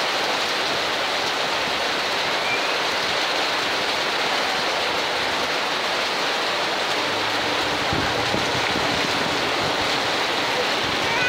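Heavy tropical downpour with floodwater rushing along the street, a steady, even hiss and wash of water.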